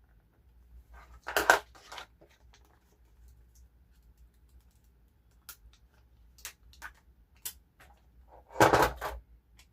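Paper and plastic sticker sheets being handled: a short crinkling rustle about a second and a half in, light scattered ticks and taps, and another crinkling rustle near the end.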